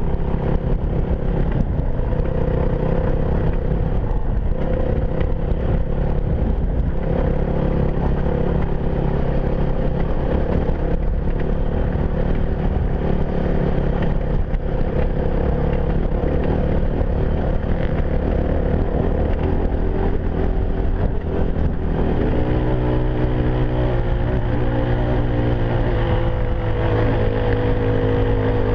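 Single-cylinder four-stroke enduro motorcycle engine, a Yamaha WR250F, running steadily under way, with wind and terrain noise. About twenty-two seconds in, the engine note shifts to a different pitch and holds there.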